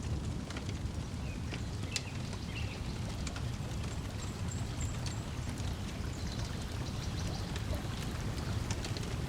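Layered nature ambience: a wood fire crackling with frequent small pops over a steady wash of lake water lapping, with a few brief bird chirps now and then.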